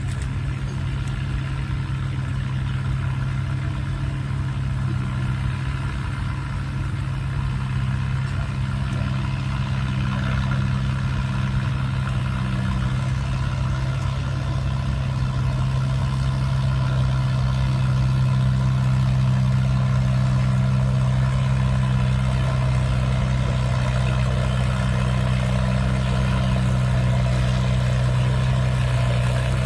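Antique farm tractor engine running at a steady pitch, getting gradually louder through the first half and then holding.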